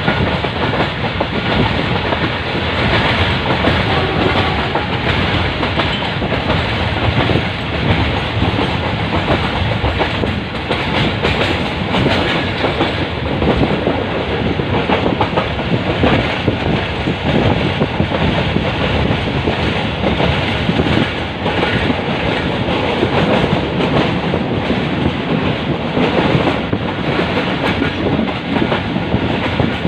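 Pakistan Railways Karachi Express passenger train running steadily along the track, with a continuous clatter of short knocks from the wheels and rails.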